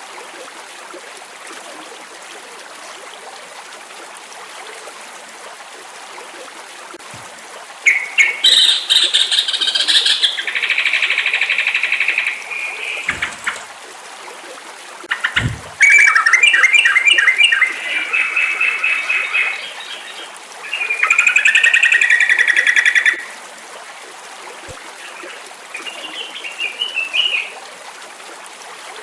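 Yellow-vented bulbul (trucukan) singing in four bursts of rapid, chattering repeated notes, over a steady background hiss. A couple of soft low thumps come between the phrases.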